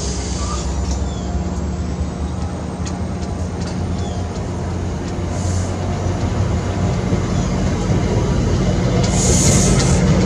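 Commuter train with stainless-steel coaches moving past at close range: a steady low drone under rumbling wheel and rail noise, with a short high hiss about halfway through and another near the end.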